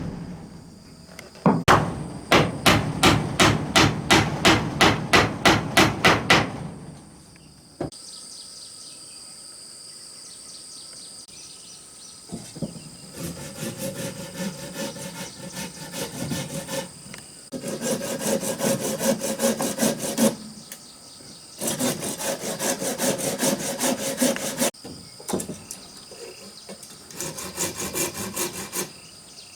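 Wood being hammered with quick, evenly spaced blows, about three to four a second for several seconds, then after a short pause a handsaw cutting wood in four long stretches of rapid strokes. Insects trill steadily in the background.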